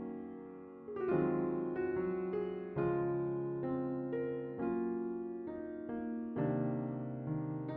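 Background music: a gentle piano playing slow chords, a new chord struck about every second and left to ring.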